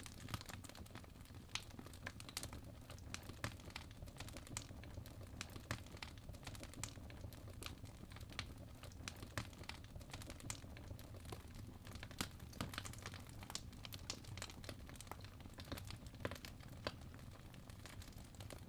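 Wood fire burning in a fireplace, crackling with many small irregular pops and snaps over a low steady rumble of the flames.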